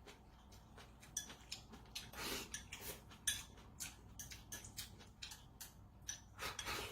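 Cutlery or chopsticks tapping and clicking irregularly against a dish, with a couple of longer scraping sounds, about two seconds in and near the end.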